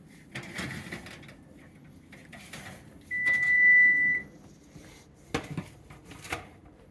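A single electronic appliance beep: one steady high tone, held a little over a second. It fits the oven or kitchen timer being set for five more minutes of baking. Light handling noise and two sharp knocks near the end.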